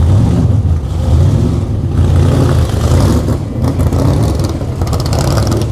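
A hot rod's big, loud engine rumbling as it cruises slowly past, with a deep, uneven low throb.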